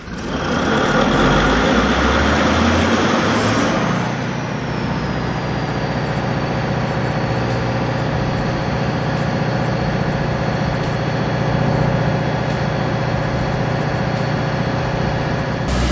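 A big old engine starting up: loud and noisy for about four seconds, then settling into a steady idle with a low hum and a thin high whine that drops in pitch and then holds.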